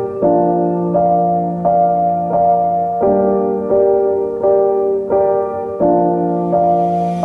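Background piano music: gentle chords with notes struck on a steady, even pulse.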